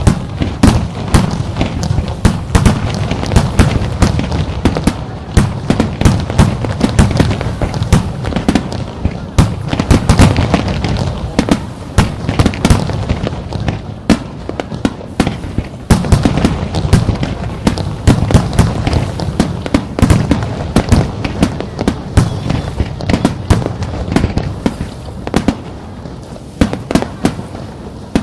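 Fireworks display: a dense, continuous barrage of shell bursts and crackles, several bangs a second over a deep rumble, thinning slightly near the end.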